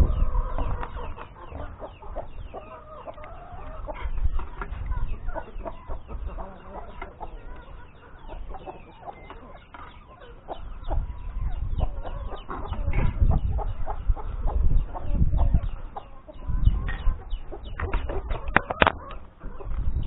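Chickens clucking, with bursts of low rumble.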